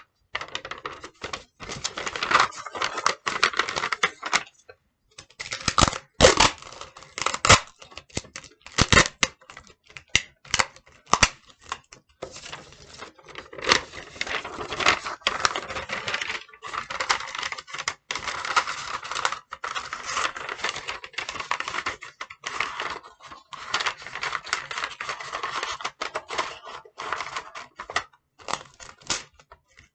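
Paper being crumpled and squeezed by hand into shape, an irregular run of crackles and sharp crinkling snaps with brief pauses.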